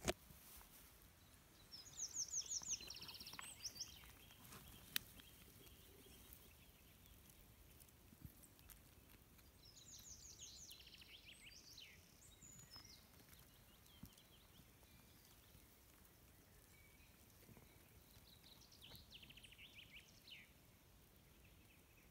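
A small songbird singing three short songs, each a quick run of high trilled notes, about eight seconds apart, over faint outdoor background noise. A single sharp click comes about five seconds in.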